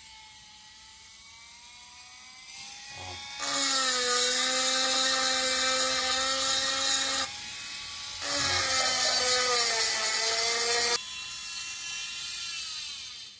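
ZEM electric nail file handpiece motor running with a steady whine, getting much louder with a hissy edge twice, from about three and a half seconds and about eight seconds in, then winding down near the end. After the repair the handpiece runs with its normal hum, no longer screaming.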